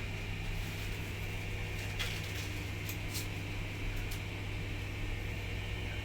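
Steady low electrical hum, with a few faint clicks and creaks scattered through it.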